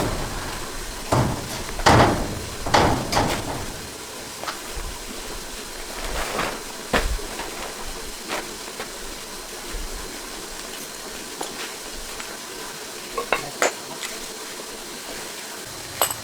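Metal tools and tractor parts being handled during repair work: irregular clanks and knocks, several in quick succession in the first few seconds, then scattered lighter clicks, over a steady hiss.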